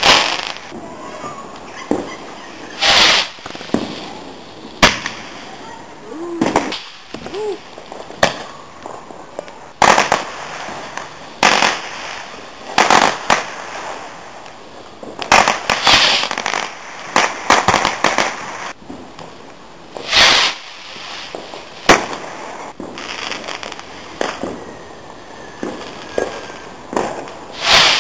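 Backyard consumer fireworks going off: a string of sharp bangs every second or two, with stretches of rapid crackling.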